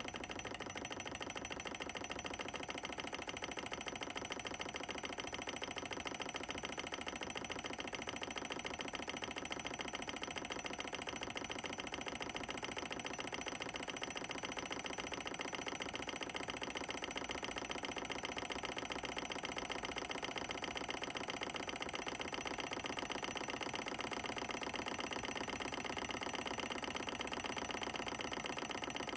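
Solar Engines Model 1 Stirling hot-air engine running steadily, its moving parts making a fast, even mechanical ticking.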